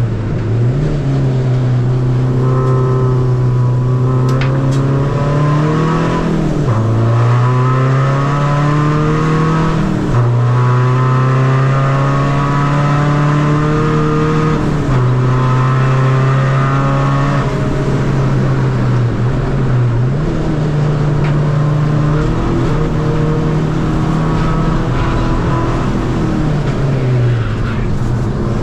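Tuned Seat Ibiza FR 2.0 common-rail diesel engine under hard acceleration on track, its pitch climbing through each gear and dropping sharply at every shift of the short-ratio gearbox. This repeats several times.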